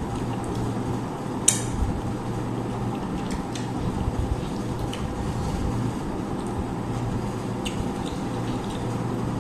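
Occasional light clinks and taps of plates and serving utensils during a meal eaten by hand, the sharpest clink about a second and a half in, over a steady low background hum.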